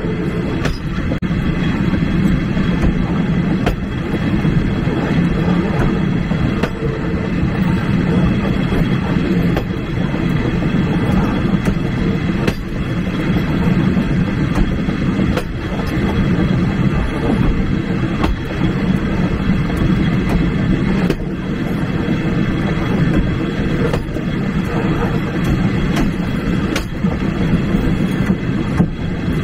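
Passenger carriage of a steam-hauled train rolling along the track: a steady rumble of wheels on rail, with a sharp click every few seconds as the wheels cross rail joints.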